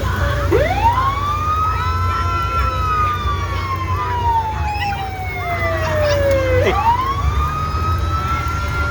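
Fire engine siren sounding: its pitch rises quickly about half a second in, falls slowly for about six seconds, then rises again near the end, over the steady low rumble of the truck's engine.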